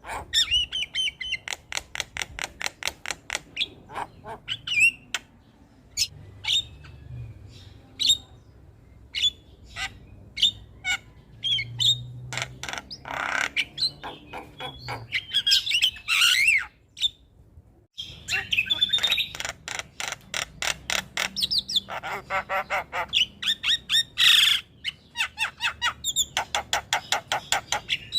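Javan myna (jalak kebo) singing: fast runs of sharp chattering notes mixed with harsh squawks and whistled phrases, with a brief break about eighteen seconds in.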